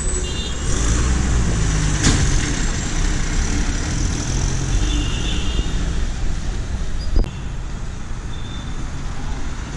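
Heavy vehicle engine running with traffic noise around it, with sharp knocks about two seconds in and again near seven seconds.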